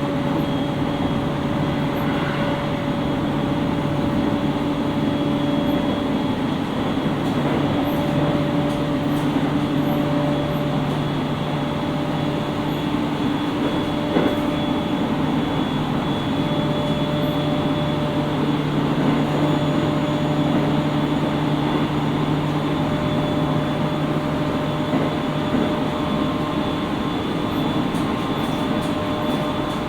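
JR East 701-series 5500-subseries electric train heard from inside its motor car while running at a steady speed: an even rumble of wheels on rail with several steady humming tones from the drive underneath.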